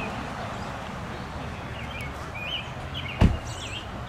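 Songbird chirping in short repeated phrases over steady low outdoor background noise, with a single sharp knock about three seconds in.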